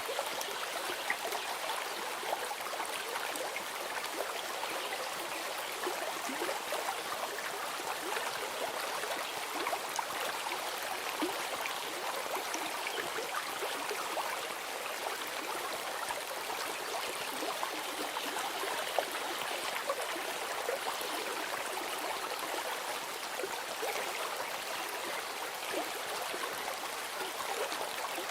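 A small stream running steadily, with a constant babble of water and many small splashes and trickles.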